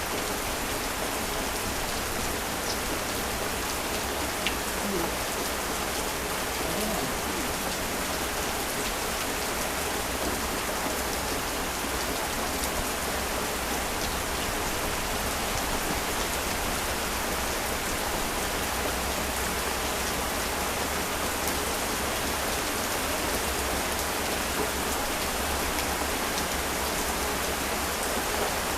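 Heavy rain falling steadily: a dense, even hiss of rain with a few separate drop ticks standing out.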